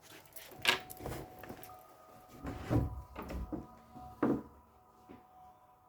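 A few sharp knocks and bumps, loudest about a second in and again near four seconds, from someone moving about a room and opening a door.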